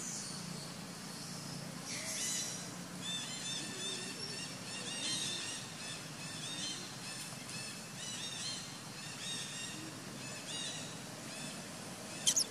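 Birds chirping in the forest, with many short, arching, high-pitched calls repeated several times a second. A faint low hum fades out about two seconds in, and a sharp click comes near the end.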